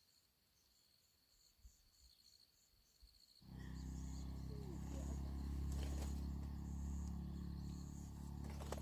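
Insects chirping in quick repeated pulses. About a third of the way in, a much louder steady low rumble starts abruptly and keeps going under the chirping.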